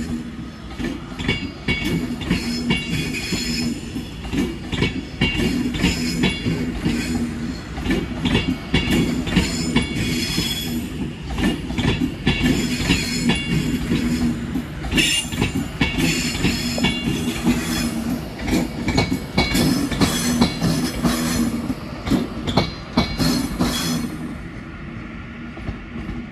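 Avanti West Coast Class 390 Pendolino electric train running through the station, its wheels clattering rhythmically over rail joints and points, with stretches of high-pitched wheel squeal. The noise drops off near the end as the last coaches pass.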